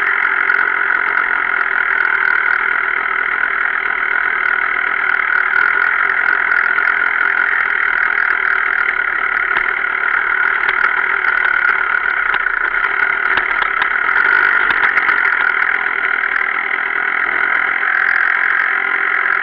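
Gas Gas 250 enduro motorcycle's engine running steadily as the bike is ridden, picked up by a camera mounted on the handlebars, with little bass.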